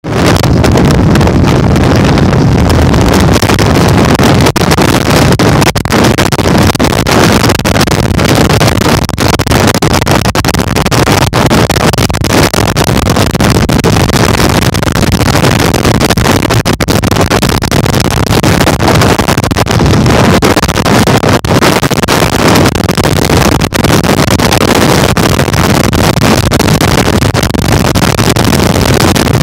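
Heavy wind buffeting on the microphone during a bike ride, a loud, steady, crackling rush that drowns out everything else.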